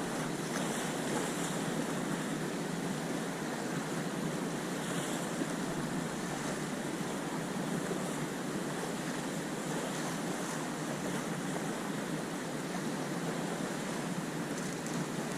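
Sea waves washing in along a sea wall, a steady noise with wind buffeting the microphone.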